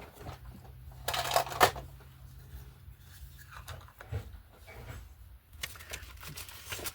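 Craft supplies being handled on a desk: short rustles of paper or packaging about a second in and again near the end, with scattered light taps and clicks.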